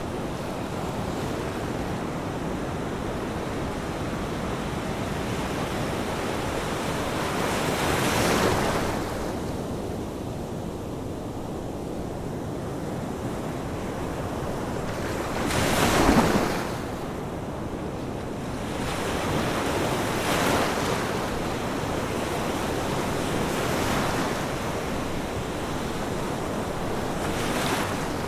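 Ocean waves breaking on a shore: a steady wash of surf with a wave cresting and crashing every few seconds, the loudest about halfway through.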